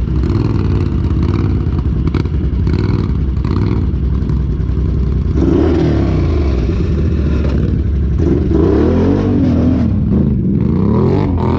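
Off-road vehicle engine running under throttle, its pitch rising and falling as the revs go up and down, with the revs picking up about five seconds in and again near the end.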